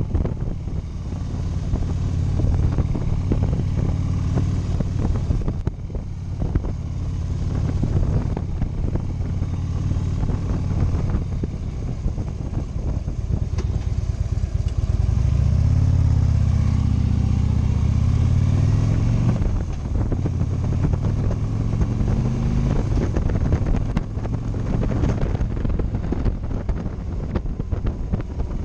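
Motorcycle engine running under way. About halfway through the revs climb and hold higher for a few seconds, then fall back.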